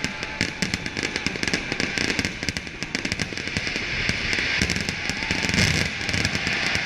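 Fireworks display: rapid, continuous crackling and popping.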